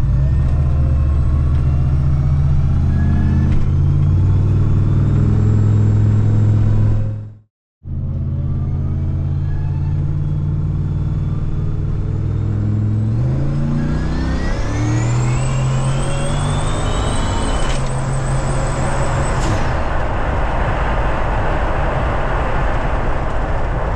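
Turbocharged LSA V8 of a 1987 Chevrolet Caprice heard from inside the cabin, running steadily and then pulling harder under acceleration after a brief cut. As it pulls, a high turbo whine rises and holds, then lets off, leaving a rush of engine and road noise.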